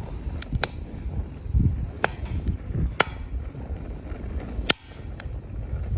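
Half a dozen sharp, irregular knocks of a hand tool striking, over wind noise on the microphone.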